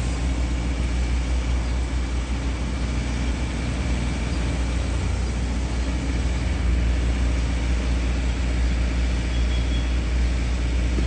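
A motor vehicle's engine running with a steady low rumble and traffic-like noise, with no jingle melody playing.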